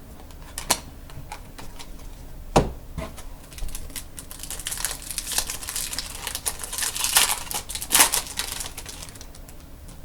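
A Topps Chrome trading-card pack being handled and opened: a few sharp clicks of cards and wrapper, then dense crinkling and tearing of the foil wrapper for several seconds.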